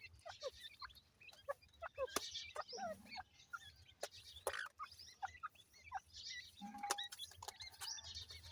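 Teetar (francolin) chicks peeping, a steady run of many short chirps, some sliding up or down in pitch, with scattered sharp taps mixed in.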